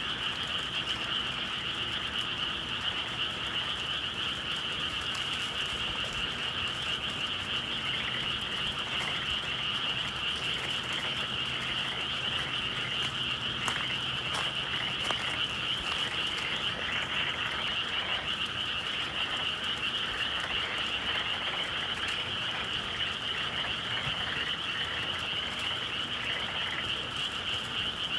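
Dense chorus of many frogs calling at once, a steady high-pitched trilling wall of overlapping calls.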